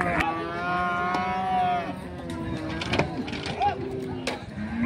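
Cow mooing: one long moo of about two seconds at the start, with another beginning near the end, and a few sharp knocks in between.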